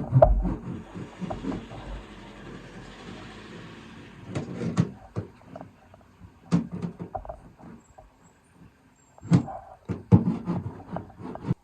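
Irregular knocks, bumps and rattles from handling things against the bare metal panels of an empty van body, loudest just after the start and in a cluster near the end. A hiss runs under the knocks for the first few seconds.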